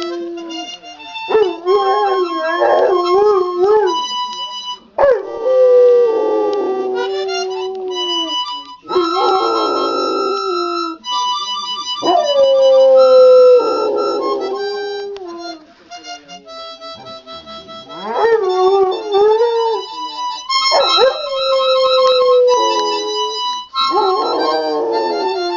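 Fila Brasileiro–Boxer mix dog howling along to a harmonica. The harmonica plays short phrases of held chords, and the dog's wavering howls slide up and down over and between them.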